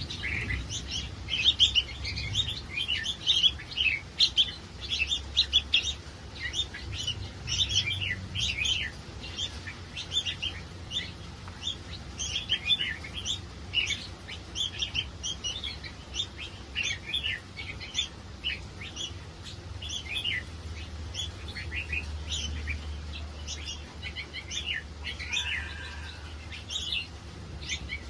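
A crowd of caged red-whiskered bulbuls chirping and calling over one another, a dense stream of short, quick notes that never lets up, with a low steady hum underneath.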